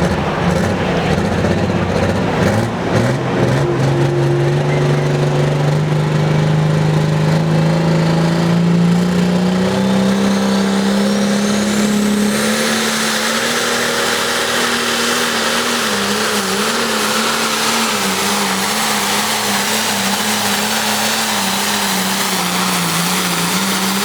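International 1066 pulling tractor's turbocharged diesel engine at full throttle under load, dragging the sled down the track. Its pitch climbs steadily for about ten seconds, then holds with a wavering pitch, and a broad hiss joins about halfway through.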